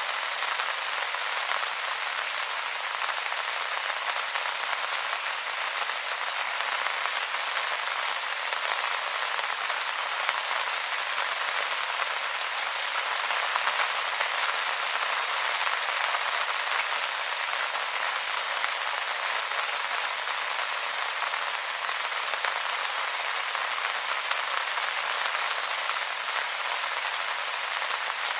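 Steady rain falling on wet leaves: an even hiss of many small drop patters, without change.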